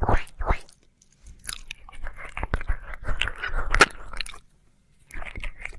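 Close-up wet mouth sounds of ear licking: tongue and lips licking and smacking at the microphone, coming in bursts of wet clicks with short pauses, the longest burst in the middle.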